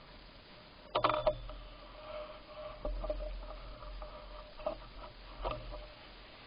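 Bicycle ride noise: a quick cluster of sharp clicks and rattles about a second in, then scattered single clicks over a faint steady hum and low rumble.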